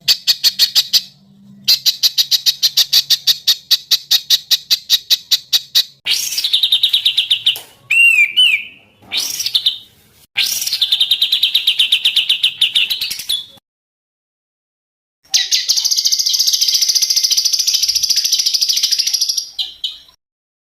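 Songbirds singing in a series of spliced recordings. First come fast runs of repeated chirps, about ten a second. Next is a short passage of gliding whistled notes, then another rapid trill, and finally a long buzzy trilling song. Each passage breaks off abruptly into dead silence.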